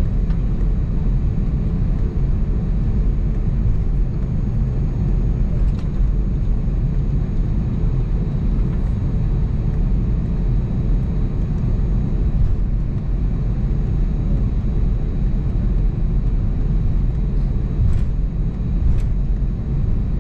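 Steady low cabin rumble inside an Airbus A320-251N airliner, the even drone of its CFM LEAP-1A engines and the airflow heard from a seat in the cabin, with a few faint ticks.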